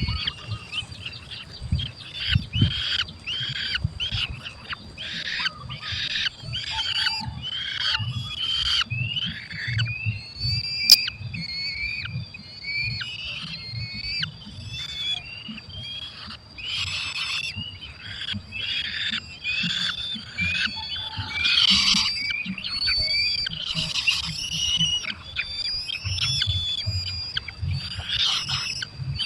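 Falcon nestlings calling over and over in the nest, a dense run of short, high, squealing calls that bend in pitch.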